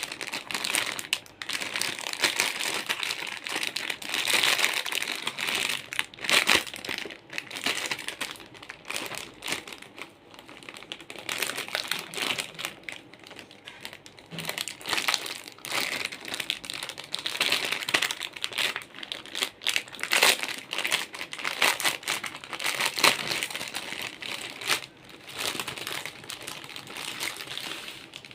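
Packaging crinkling as it is handled and unwrapped, an irregular run of crackles and sharp clicks that goes on without a break.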